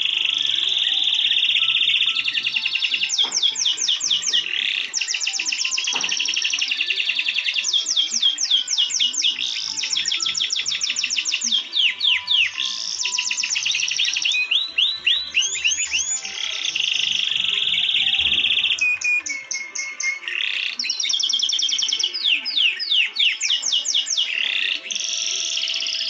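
A songbird singing in long phrases of fast trills, each a rapid run of short downward-sweeping notes, alternating with held high whistles, with brief pauses between phrases.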